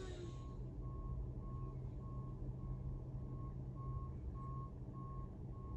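Tractor-trailer's reversing alarm beeping steadily as the truck backs up, about ten evenly spaced single-tone beeps, faint, over the steady low running of the truck's engine.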